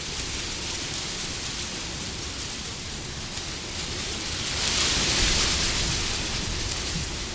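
Wind blowing as a steady rushing noise. About four and a half seconds in, a gust swells up louder and hissier, then eases off over the next couple of seconds.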